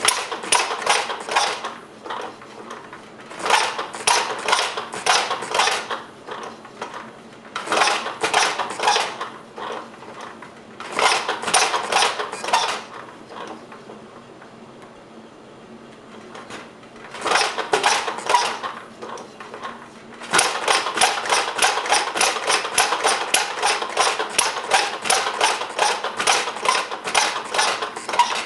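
Replica of Henry Ford's single-cylinder kitchen sink engine, with spark from a Model T buzz coil, popping in short runs of rapid regular firing that die out after a second or two. This happens five times, and then the engine catches about twenty seconds in and keeps running steadily. A faint steady hum sits underneath.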